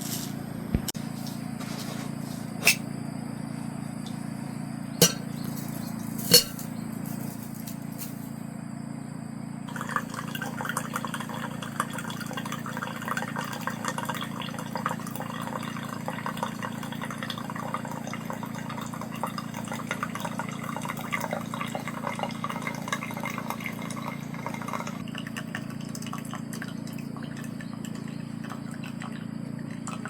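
Liquid being poured and trickling for about fifteen seconds, starting about ten seconds in, over a steady low hum. A few sharp clicks come in the first several seconds.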